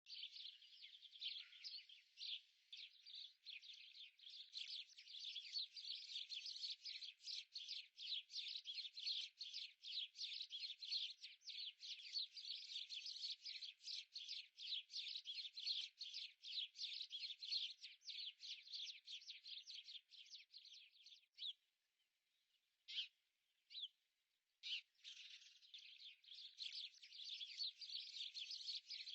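Small birds chirping rapidly and continuously, falling almost silent for a few seconds near the end before the chirping resumes.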